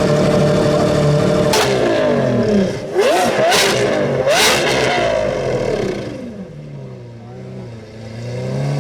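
Sports car engine held at steady revs, then accelerating hard through several quick gear changes, each marked by a sharp exhaust crack, before the engine note falls away as the car moves off.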